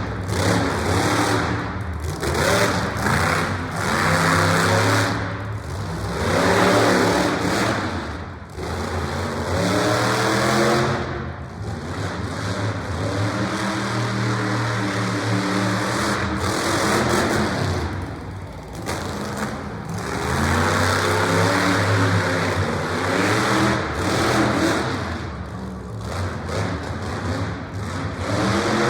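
Monster truck engine revving hard, its pitch climbing and falling back again and again with short lifts of the throttle in between.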